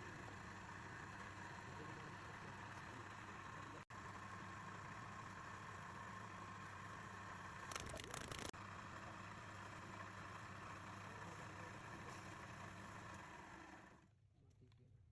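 Lathe motor running steadily with a low hum, with a short, harsher noisy burst about eight seconds in; the running sound drops away near the end.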